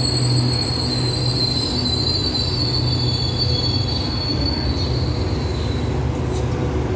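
Passenger coaches of an express train rolling slowly along the platform as they brake, with a high-pitched wheel squeal over a steady low rumble; the squeal fades out about five seconds in.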